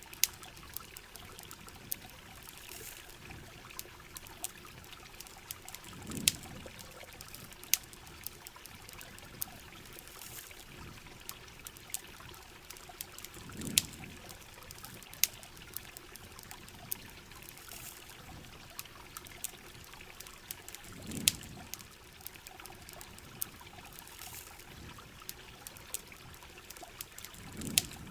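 Steady rain and trickling water mixed with the crackle and sharp pops of a campfire. A soft low swell comes and goes about every seven seconds.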